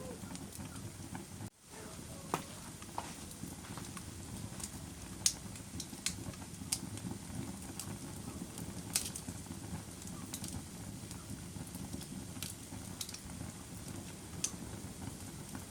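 Wood fire crackling in a fireplace: a steady low rush of burning with irregular sharp pops and snaps. The sound cuts out for a split second about a second and a half in.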